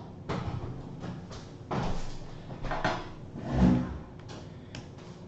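Handling noises of a laptop's power adapter and cable being unwound and plugged in: several short rustles and knocks, the loudest a dull knock about three and a half seconds in.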